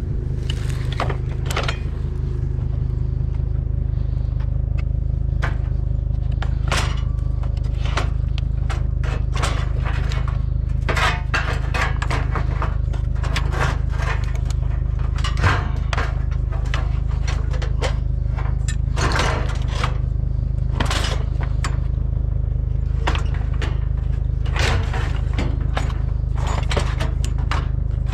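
Scrap metal scraping and clanking as pieces are loaded into a pickup truck's bed, with many irregular knocks and scrapes over a steady low rumble.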